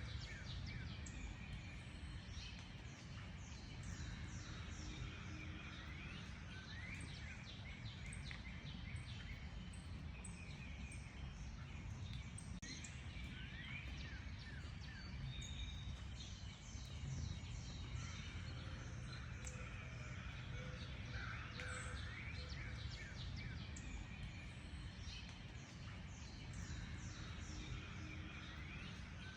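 Several songbirds singing and chirping in quick, overlapping phrases over a steady low rumble of background noise.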